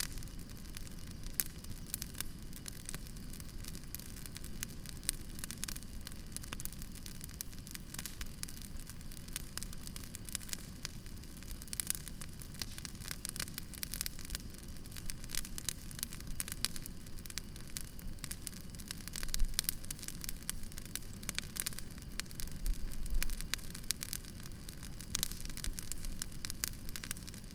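Campfire burning and crackling: frequent sharp snaps and pops from the burning wood over a steady low rush of flame, with a few louder pops partway through.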